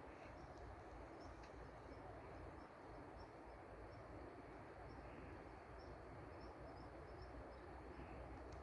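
Faint outdoor ambience: a steady soft hiss with scattered faint high chirps of small birds.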